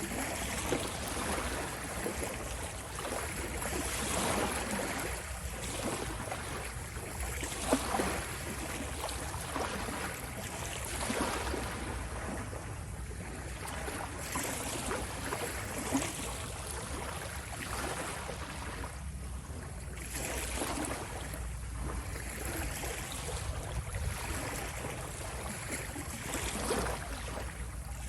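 Ocean waves washing in, the surf noise swelling and fading every few seconds over a steady low rumble, with a few brief sharper splashes.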